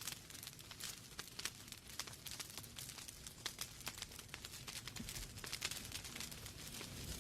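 Wood fire in a fireplace crackling: a steady run of small irregular pops and snaps over a faint low hiss.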